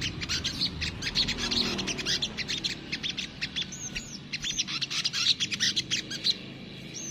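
A sogok ontong sunbird singing a fast, non-stop chattering song of high chirps and short rising and falling notes.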